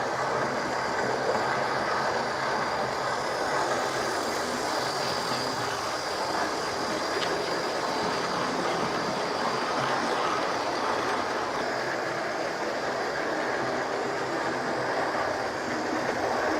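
Hornby OO gauge Flying Scotsman model locomotive, tender-driven, running steadily around its track: an even, high motor whine over the rumble of wheels on the rails.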